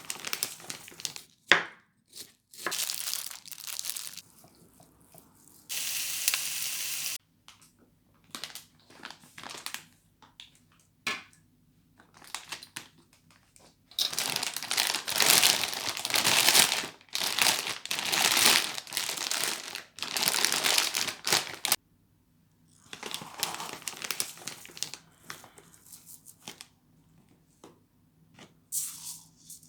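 Crinkling and tearing of some crinkly material, in irregular bursts of a second to several seconds with short quiet gaps between them.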